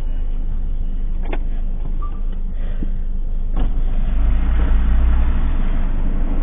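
Steady motor-vehicle engine and road rumble, swelling louder about four seconds in, with a couple of sharp clicks.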